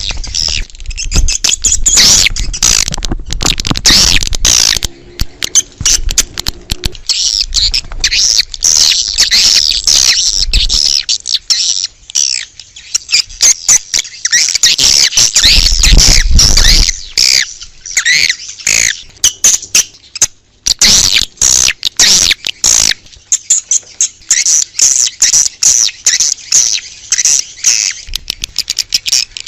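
Swiftlets twittering: a dense, continuous run of rapid high chirps and trills. This is a swiftlet call recording of the kind played to lure the birds to nest houses. A low rumble lies under the first ten seconds or so and returns briefly about halfway.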